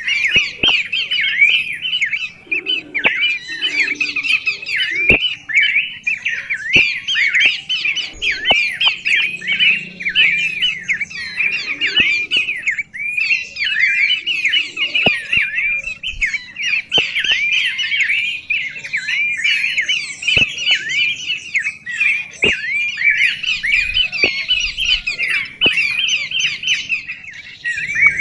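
Birds chattering continuously: a dense stream of rapid, squawky, downward-sweeping chirps with no pause, with occasional sharp clicks mixed in.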